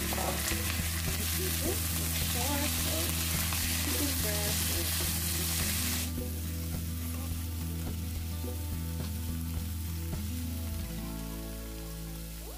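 Raw chicken wing pieces sizzling in hot oil with sliced onion and garlic in a wok, stirred with a plastic spatula. The sizzle is strong for about the first half, then drops to a quieter hiss.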